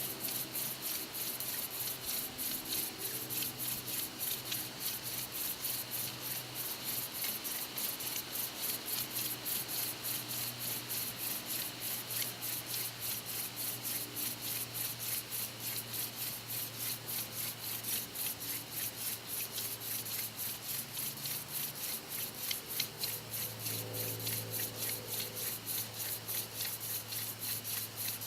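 Hand drill for friction fire: a mullein spindle twirled back and forth between the palms, grinding in the notch of an eastern white cedar hearth board. It makes an even rasping rub, about three to four strokes a second, while the notch fills with wood dust.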